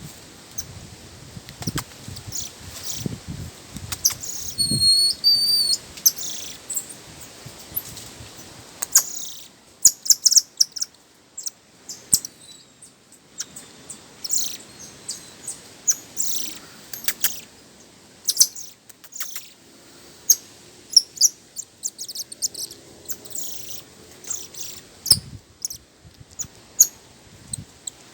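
Wild birds chirping and calling: many short, high, quick chirps scattered throughout, with a clear whistled note that steps in pitch about five seconds in. A few low thumps sound in the first few seconds.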